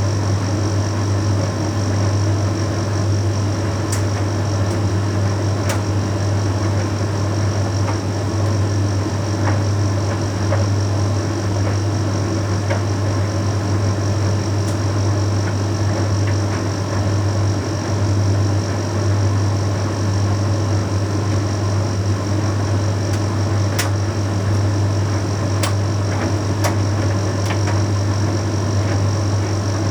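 Bosch Series 6 heat pump tumble dryer running a Shirts cycle: a steady low hum from the heat pump and turning drum, with a high steady whine above it and a few light clicks now and then.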